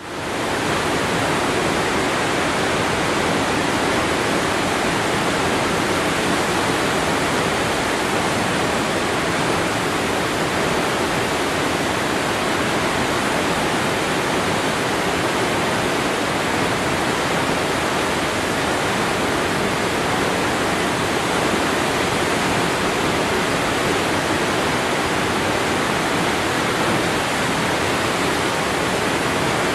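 Waterfall, water falling and splashing in a steady, dense rush. The sound dips briefly right at the start and then comes straight back.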